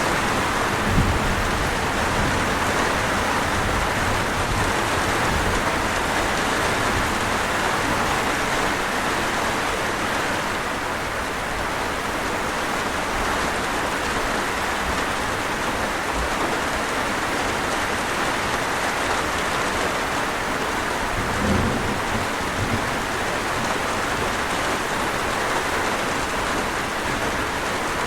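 Steady rain, an even hiss. Brief low rumbles come about a second in and again about twenty-one seconds in.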